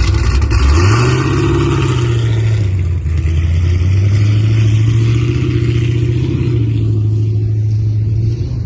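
A car engine running loudly, its pitch rising sharply about a second in and then held at a raised, steady rev for several seconds before easing near the end.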